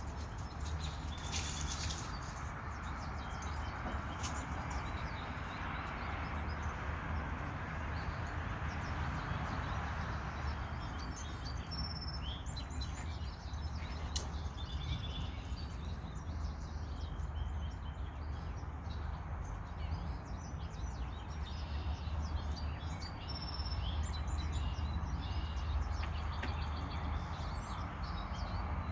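Small birds chirping in short, scattered high calls that come more often in the second half, over a steady low background rumble.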